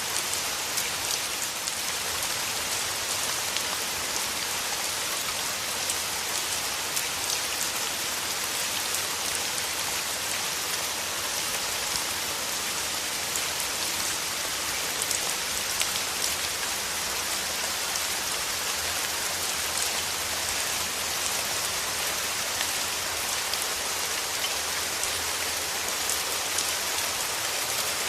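Steady rain falling, a dense even hiss with the patter of individual drops picked out on top.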